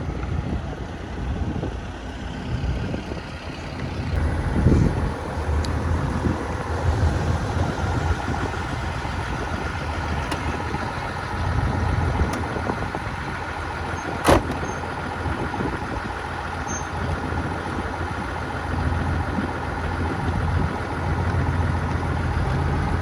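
A motor vehicle's engine running at low revs, a steady low rumble throughout, with a single sharp click about fourteen seconds in.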